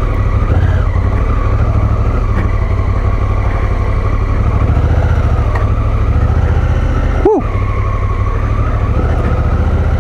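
Adventure motorcycle's engine running steadily while riding a dirt track. About seven seconds in there is one short, sharp sound.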